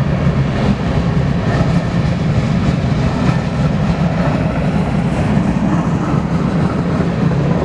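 Freight cars of a long grain train rolling past at speed: a steady, loud rumble of steel wheels on rail with scattered faint clicks.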